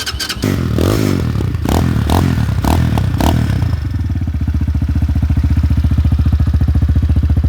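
A 250cc cruiser motorcycle engine starts up and is revved in several quick blips through its 1-into-2 exhaust. About four seconds in it settles into a steady idle with an even pulsing beat.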